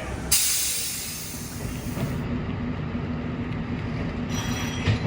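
Train running, heard from on board: a sudden loud hiss about a third of a second in that fades over about a second and a half, then a steady low hum as the train rolls along.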